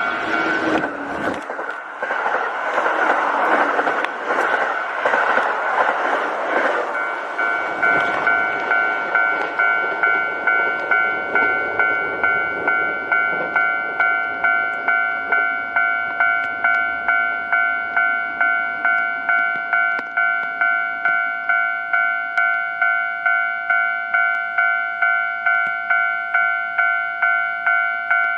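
A Kintetsu electric train passing over a level crossing, its rushing wheel noise loud for the first seven seconds or so and then fading. The crossing's warning bell rings at an even clang about twice a second and keeps ringing after the train has gone.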